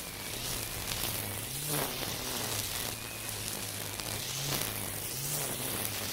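Makita 40V cordless brush cutter with a nylon-line trimmer head cutting weeds: a steady hum that steps up in pitch for a moment several times, over a constant hiss.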